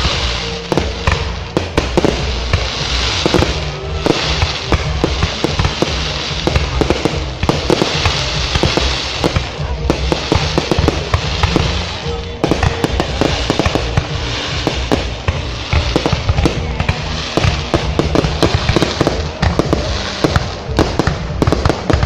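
Aerial fireworks bursting, a continuous dense stream of pops and crackles with recurring swells of hissing crackle. Music plays underneath.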